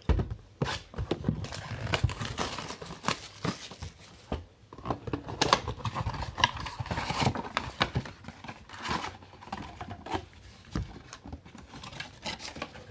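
Trading-card boxes and foil packs being handled and torn open. Cardboard tears, wrappers crinkle, and there are many small knocks and clicks.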